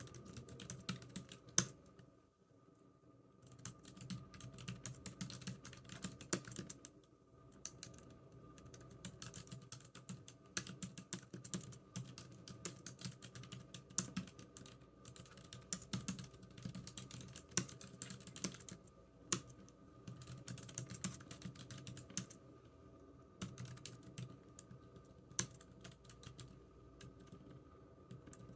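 Typing on a computer keyboard: quick runs of key clicks with short pauses between bursts, over a faint steady hum.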